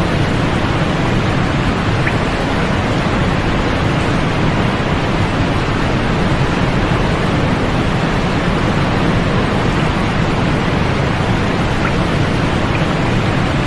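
Steady sleep-aid white noise: an even, unchanging hiss, fuller and stronger in the low end than in the highs.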